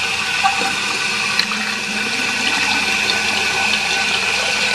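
1983 American Standard Cadet toilet tank refilling, its fill valve hissing steadily as water runs in.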